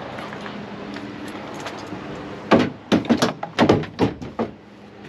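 A quick run of about half a dozen sharp knocks and clacks about halfway through, from parts being handled during work on the car, over a steady background hum.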